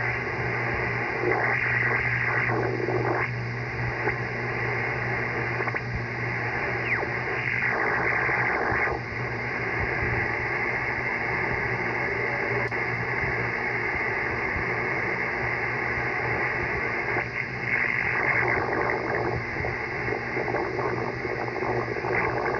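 Icom IC-7300 transceiver's speaker playing local electrical interference picked up on an end-fed dipole: a dense, continuous buzzing static with a steady low hum under it, swelling briefly a few times. The noise is radio-frequency interference from a nearby electrical source.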